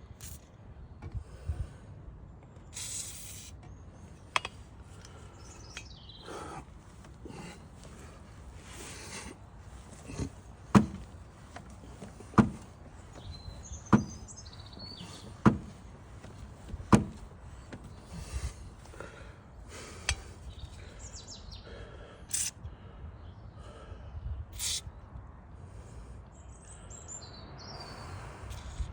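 A series of sharp knocks, about one every one and a half seconds for a stretch in the middle, with a few more scattered around it, over a low steady background; birds chirp briefly twice in the background.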